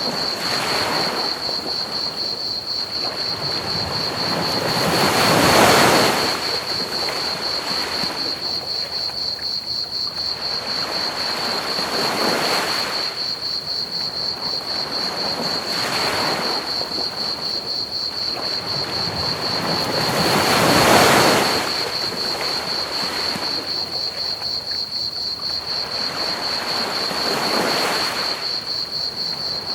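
Ocean waves breaking and washing up the beach, swelling and fading every few seconds, with two larger waves standing out. Under them runs a continuous high, fast-pulsing trill of crickets and a steady hiss of pink noise.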